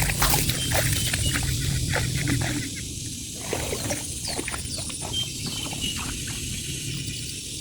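Outdoor rural ambience: a low rumble that fades out about two and a half seconds in, under scattered clicks and short, quick chirps from small animals.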